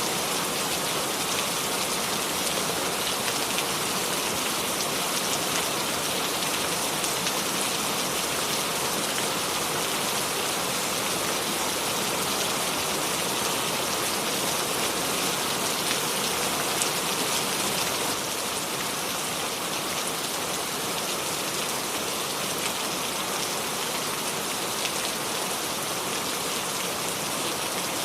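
Steady rain falling on surfaces, a dense even patter of drops with no thunder.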